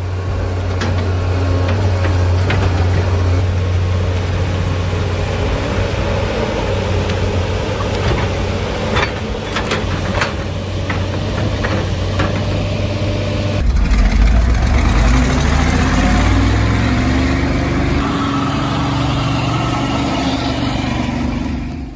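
Heavy diesel machinery engines running, with a handful of sharp knocks a little before the middle. About two-thirds through, the sound cuts abruptly to a deeper engine that climbs in pitch as it revs.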